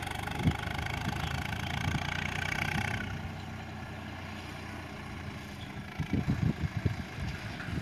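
Diesel tractor engine running, louder for the first three seconds or so, then quieter. Wind buffets the microphone near the end.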